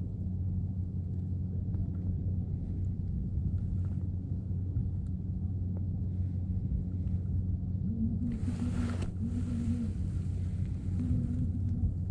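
Steady low rumbling hum at an even pitch, with a short rushing hiss about eight seconds in.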